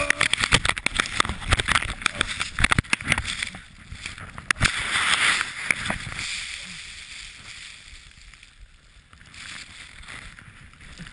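A skier's crash on snow: a rapid run of knocks and scrapes as skis and body strike the snow, then a rush of sliding noise about five seconds in, settling into quieter scuffing over the second half.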